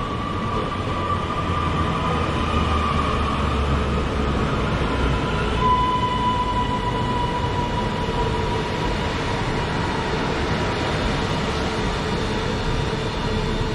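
Class 331 electric multiple unit at the platform, with a steady low rumble and electrical whine. The rumble eases and the whine shifts to a slightly lower, steadier tone about six seconds in.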